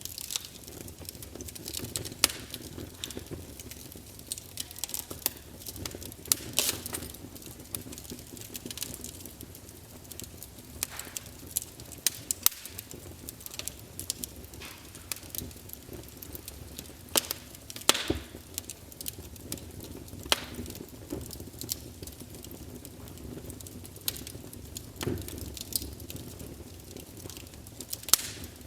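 Campfire burning, with a steady low hiss and irregular sharp crackles and pops of burning wood, a few louder snaps among them.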